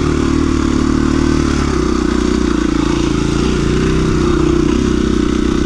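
2017 KTM 350 EXC-F dirt bike's single-cylinder four-stroke engine pulling steadily as it is ridden onto a trail. The pitch rises slightly about two seconds in.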